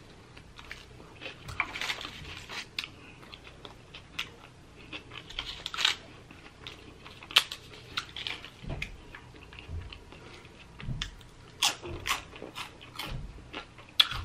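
Chewing and biting sounds of a person eating a chicken burrito and tortilla chips: a run of sharp, crunchy mouth clicks and wet chews.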